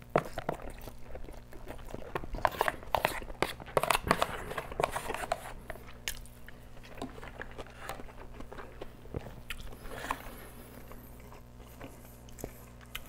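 A person chewing a mouthful of kimchi fried rice with spam, fried egg and cheese: irregular wet chewing and biting sounds, busiest a couple of seconds in and thinning out toward the end.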